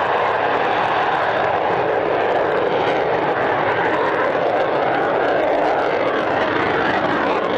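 Jet noise from a Panavia Tornado's twin RB199 engines during a fast run-by: a steady, loud rush whose tone wavers slowly.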